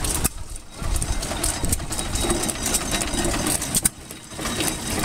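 Antique stationary gas engine running with a rapid mechanical clatter.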